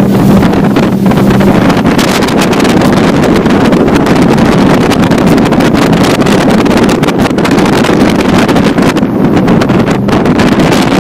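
Motorboat under way: the engine runs steadily under heavy wind rushing over the microphone.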